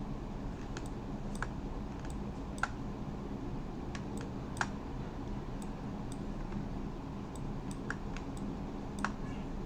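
Scattered single clicks of a computer mouse, irregularly about a second apart, over a steady low hum.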